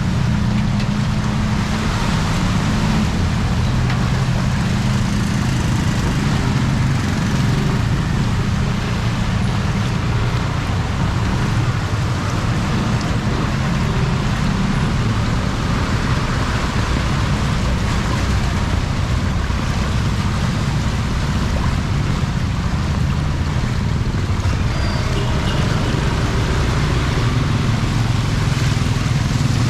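Steady noise of a flooded street in heavy rain: a constant low engine hum from road traffic under an even hiss of rain and water.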